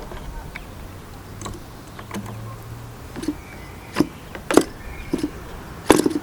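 Scattered clicks and knocks from hands working on a small model glow engine and its stand while it is not running, with a few sharp knocks in the second half; the engine has just been flooded ('feels wet') in the attempts to start it.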